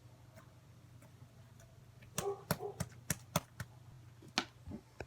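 Slime being squeezed and stretched, its trapped air pockets popping in a quick run of sharp clicks and crackles that start about two seconds in.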